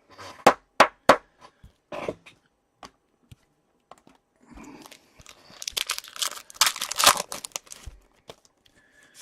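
Trading cards handled with a few sharp snaps, then a card pack's wrapper crinkling and tearing open for a couple of seconds.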